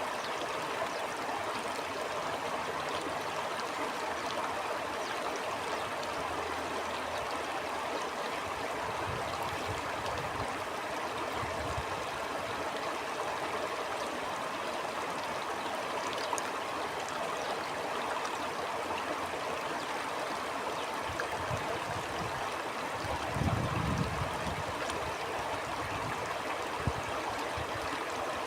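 A stream flowing with a steady rush of water. A few low rumbling gusts of wind come and go, the strongest about three-quarters of the way through.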